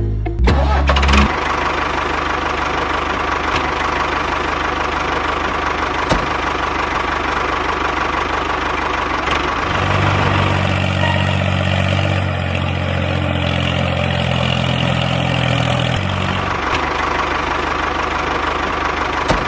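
A motor running steadily, its hum deepening and growing stronger between about ten and sixteen seconds in.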